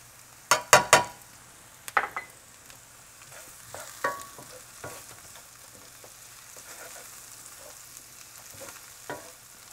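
Diced onions sizzling in oil in a stainless steel frying pan, with a few sharp knocks about a second in, then a wooden spoon scraping and stirring through the onions as turmeric is mixed in.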